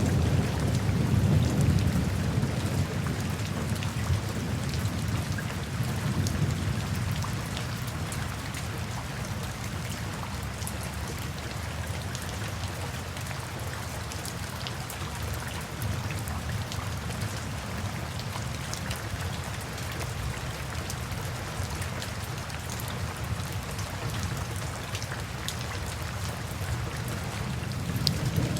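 Steady rain falling, with many fine drop ticks. A low rolling rumble of thunder is loudest in the first few seconds and dies away, leaving the rain on its own.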